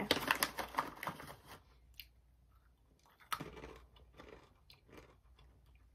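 A person chewing a mouthful of crunchy dry-roasted chickpeas: a quick run of crunches in the first second and a half, scattered ones after, and another burst a little after three seconds.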